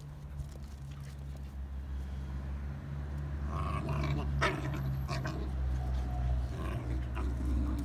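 Andalusian bodeguero puppies play-fighting and growling, getting louder as it goes on, with a few short higher yelps partway through.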